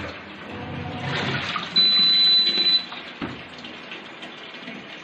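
Water rushing and sloshing in a top-loading washing machine's tub as the machine runs its wash cycle on a test run after a drum replacement. About two seconds in, a single loud, high beep sounds for about a second.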